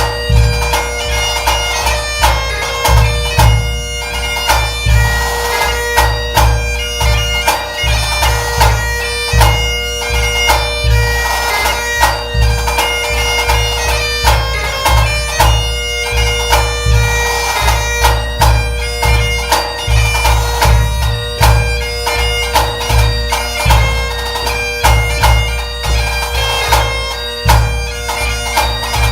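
Highland bagpipe playing a tune over its steady drones, with a pipe band bass drum beating out the pulse in regular low strikes.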